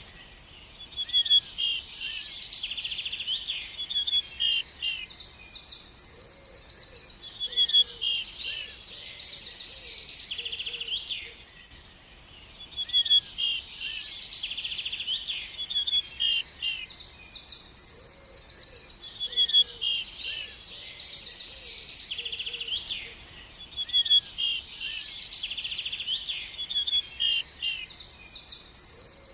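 Birds singing: dense high chirps, rapid trills and buzzy notes, with faint lower calls beneath. The same run of song repeats about every eleven seconds, with a short lull between runs.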